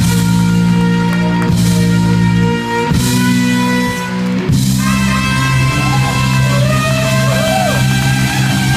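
Live rock band playing: electric guitar chords held over bass and drum kit, the chord changing twice, with sliding notes in the second half.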